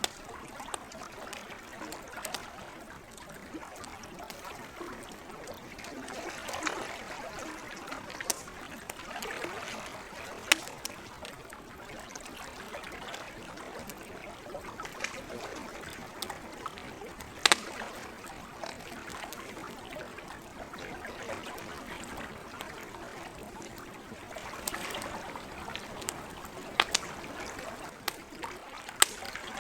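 Gentle lake water washing in soft swells, with a campfire crackling over it in scattered sharp pops; the loudest pop comes a little past halfway.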